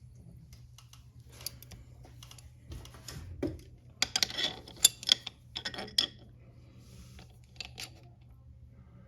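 Small metal clicks and clinks of a chain press tool being fitted and worked on a motorcycle drive chain's master link, busiest between about four and six seconds in.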